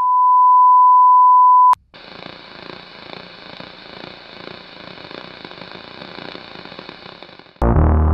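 A loud, steady 1 kHz sine tone, like a test-tone beep, for under two seconds, ending with a click. Faint noise follows, then music starts abruptly near the end.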